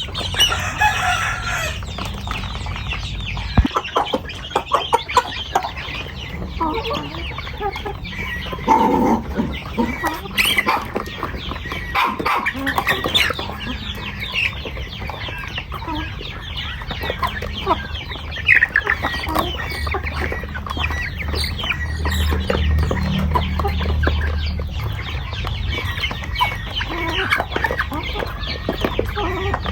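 Flock of chickens clucking, with many short calls overlapping throughout over a steady low rumble.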